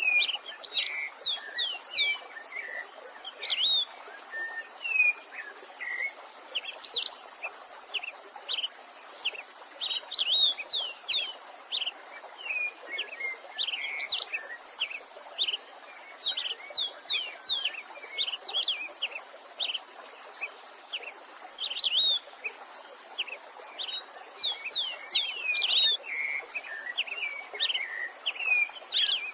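A songbird singing repeated phrases of quick whistled sweeps, one phrase every few seconds, over the steady rush of a stream.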